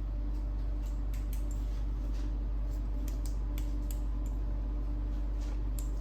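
Scattered light clicks and ticks of small plastic printer parts being handled and fitted by hand, over a steady low hum.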